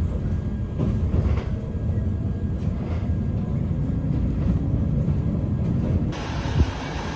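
Toyama Chihou Railway electric train running, heard from inside the car: a steady low rumble of wheels on rail with occasional faint clicks. About six seconds in, the sound changes abruptly to a brighter, hissier mix.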